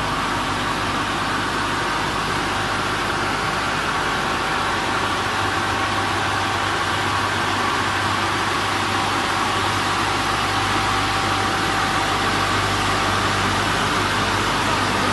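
W200D automatic car wash machine running: a steady hiss over a low hum, with faint steady whining tones.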